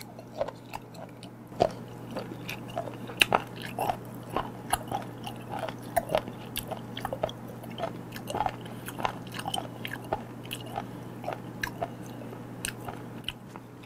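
A person chewing a mouthful of raw chicken feet in spicy seasoning, close to the microphone: irregular crunching and clicking several times a second, with a couple of sharper crunches in the first few seconds.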